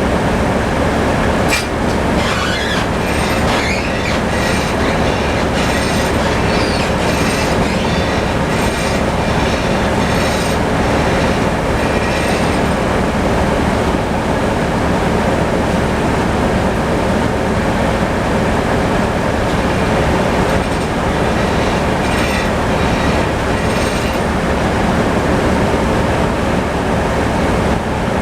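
Tractor engine running steadily, with bursts of sharp metallic clicks and squeals over the first dozen seconds and again about three quarters of the way through.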